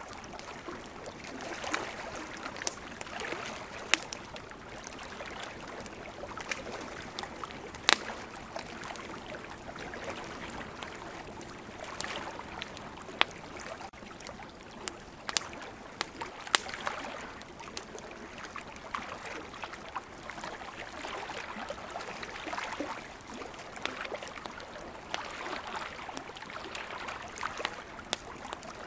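Campfire crackling, with scattered sharp pops, the loudest about four and eight seconds in, over a wash of sea waves that swells and fades every few seconds.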